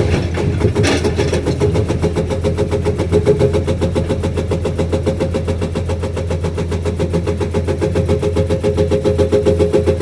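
Komatsu PC210 excavator's diesel engine running steadily under load, with a rapid, even pulsing throughout.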